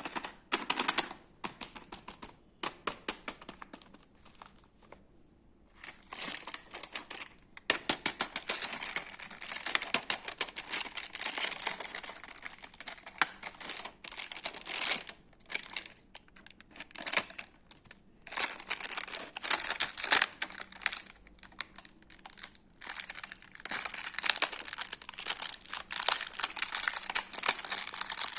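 Crinkling and crackling of chocolate and candy wrappers being handled and opened, in irregular clusters of sharp crackles with short pauses. There is a brief lull a few seconds in, and the crinkling is denser from about eight seconds on.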